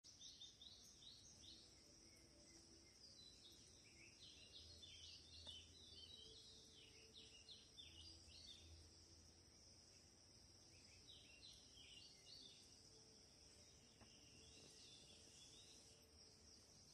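Near silence: faint chirping of small birds in several scattered bursts over a steady, faint high hiss.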